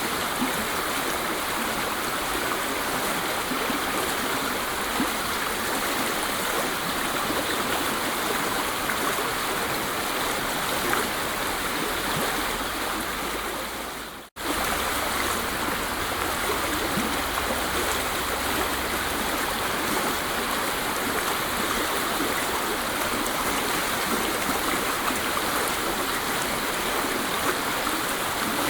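Waterfall: steady rushing water with no pauses. About halfway through it dips for a moment to near silence and then comes straight back.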